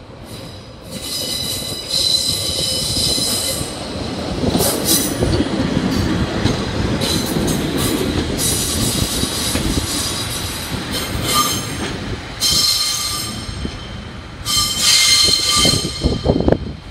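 Class 142 Pacer diesel railbus running slowly into a terminus platform, its wheels squealing on and off in high-pitched episodes over the rumble of the wheels on the rails. A few sharp knocks come near the end.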